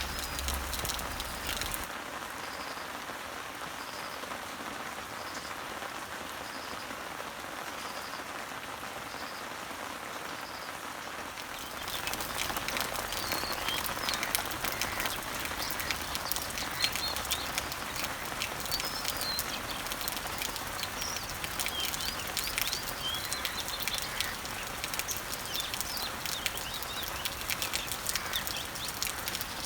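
Rain falling on leaves and trees: a steady patter of drops, with birds chirping over it. About twelve seconds in, the rain gets louder and the drops become dense sharp ticks. Before that, a short high note repeats about once a second.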